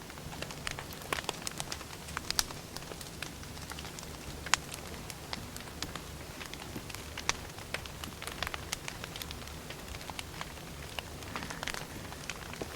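Firewood fire crackling: irregular sharp pops and snaps, the loudest about two and a half and four and a half seconds in, over a low steady rumble.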